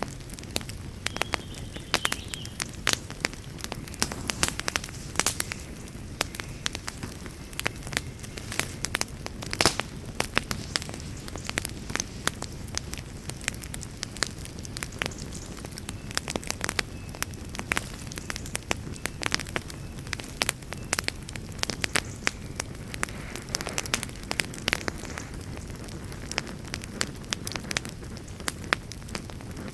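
Wood campfire crackling, with frequent sharp pops and snaps over a low, steady rush.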